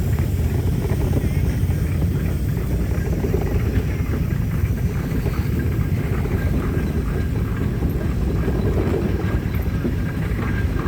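Steady low rumble of a running engine, with wind on the microphone.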